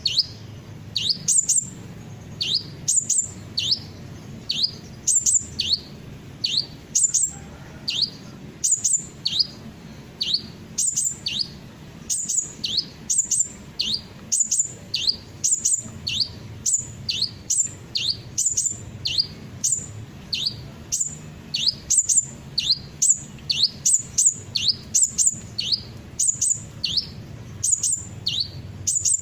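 Sunbird (kolibri) calls repeating steadily, about one a second: short very high notes, each followed by a quick falling whistle, over a faint low hum.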